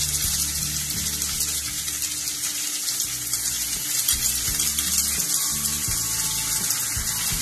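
Cubed onions and garlic sizzling in hot sunflower oil in a non-stick pan over a high flame as red chilli sauce is spooned in: a steady hiss.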